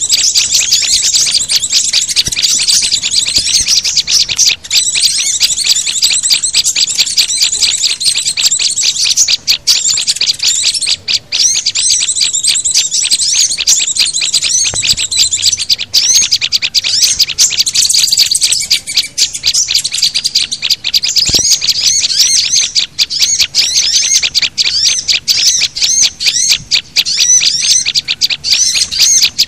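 Bird-lure recording of several small songbirds calling at once, such as white-eyes, prinias, sunbirds and flowerpeckers. It is a dense, unbroken stream of rapid high chirps and twitters that keeps going without pause.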